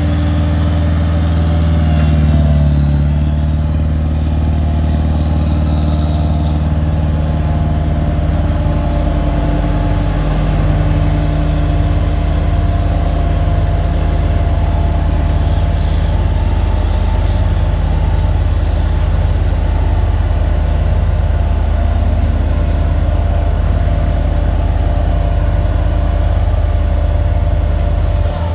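An engine running steadily and loud, with a brief rise and fall in revs about two seconds in and an even low pulsing through the rest.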